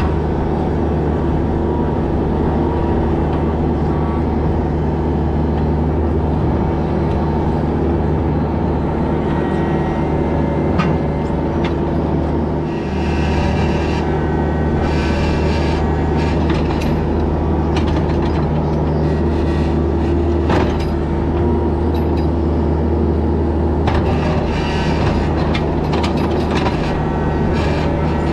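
Mini excavator's diesel engine running steadily under load, with scraping and clanking at intervals as the ripper tooth is dragged through rock.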